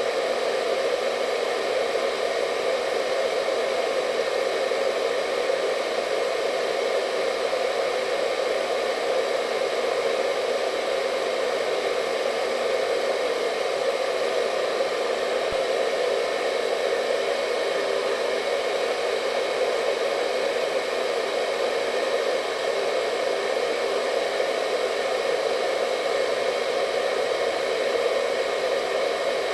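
Hair dryer running continuously, a steady even rush of air with a faint whine from its motor.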